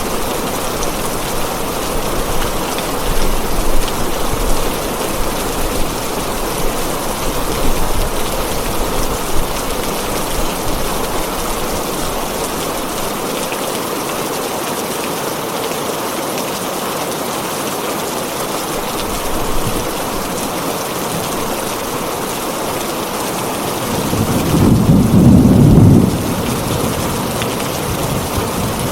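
Heavy rain on a tin roof, a steady dense hiss of drops. Near the end a low rumble of thunder swells up for about two seconds and fades.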